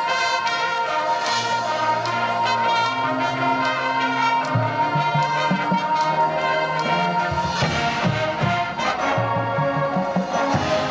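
High school marching band playing, brass section to the fore: a held high note over low brass that comes in about a second in, with drum hits joining about seven seconds in.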